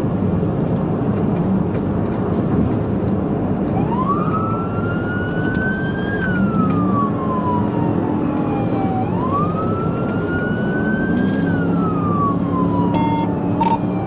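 Police car siren wailing, starting about four seconds in: a slow rise followed by a long falling glide, twice over. Steady engine and road noise of the speeding patrol car underneath.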